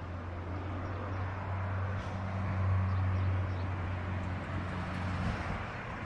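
Jet airliner engine noise at an airport: an even rushing roar, with a steady low hum under it that cuts off about five seconds in.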